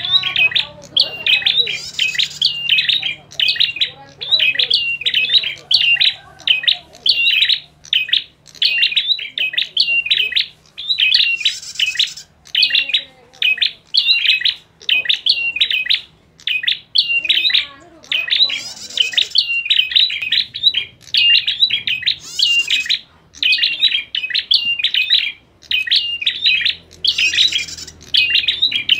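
Prinias (prenjak) giving the rapid, agitated chatter of a fight or territorial dispute: sharp notes several a second without a break. A higher buzzy call cuts in every few seconds.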